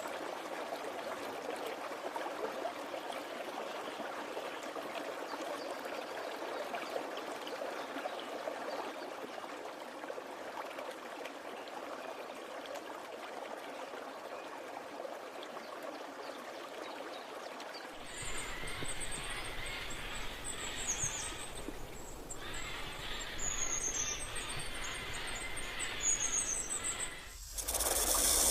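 Steady rush of running water. After a sudden change about two-thirds of the way in, high, quick chirping calls come over a low rumble, and a loud hiss cuts in at the very end.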